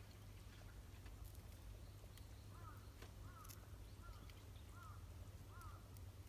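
Faint animal calls: a short arched note repeated about one and a half times a second, starting a couple of seconds in, over a low steady rumble and a few scattered faint clicks.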